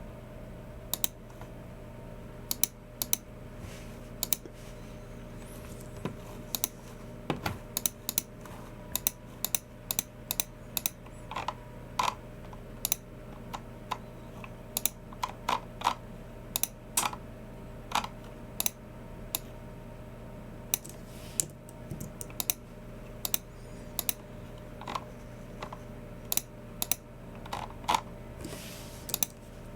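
Typing on a Logicool MX Keys Mini low-profile scissor-switch keyboard: irregular runs of light key clicks with short pauses between them. A steady low hum runs underneath.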